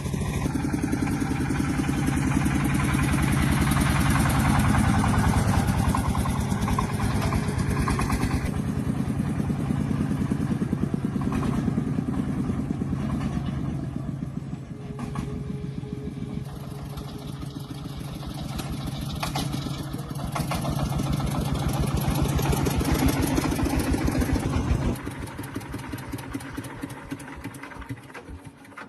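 Tractor engine running steadily with an even firing rhythm. It drops off sharply in level near the end.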